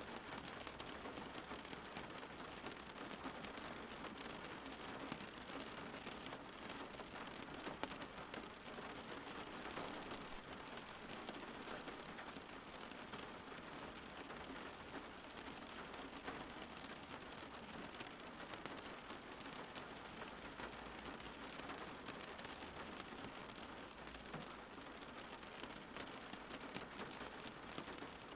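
Steady rain falling and pattering on a surface, an even hiss of many drops with no change in intensity.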